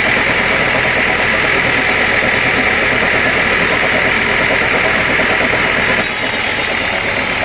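Sawmill machinery running steadily: an engine-like drone with a strong, steady high hum. The sound changes abruptly about six seconds in, the hum dropping away and a brighter hiss taking over.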